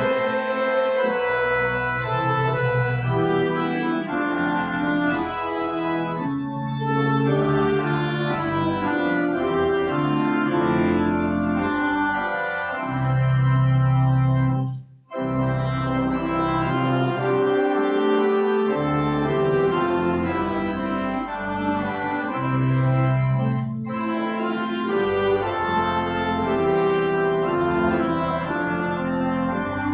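Organ playing slow, held chords. There is a brief gap about halfway through.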